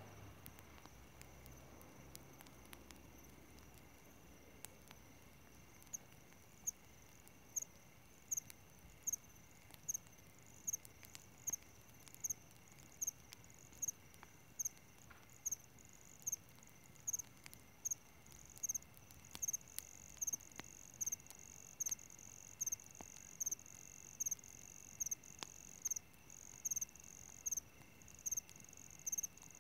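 Crickets chirping after dark: a steady high-pitched trill underneath, with a louder regular chirp that comes in about six seconds in and repeats a little more than once a second.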